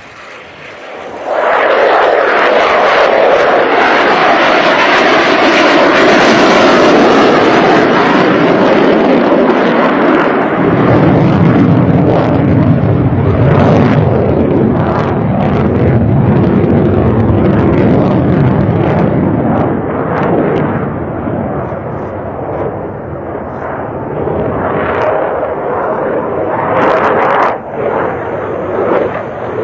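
Sukhoi Su-57 fighter jet's engines, a loud jet roar that comes in suddenly about a second in and turns deeper and lower about ten seconds in.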